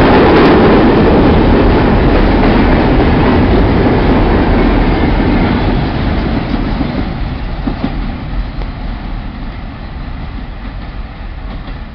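Empty mineral hopper cars of a long freight train rolling past on the rails, wheel and rail noise; the last car goes by about halfway through and the sound fades away as the train moves off.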